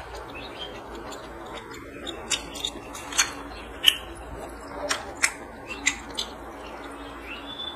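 Close-miked eating sounds: chewing on chicken gizzard with sharp, irregular mouth clicks and smacks, about one or two a second, as fingers squish and mix rice on the plate.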